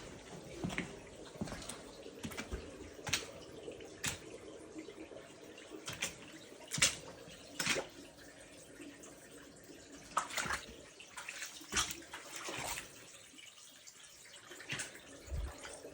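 Floodwater splashing and dripping, with irregular sharp splashes over a steady low wash of running water.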